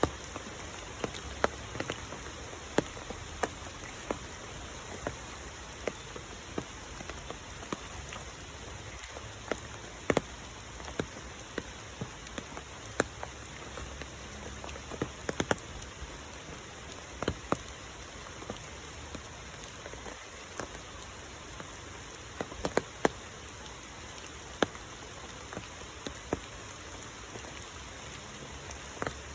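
Rain falling steadily, a constant hiss with many sharp, irregular drops hitting close by.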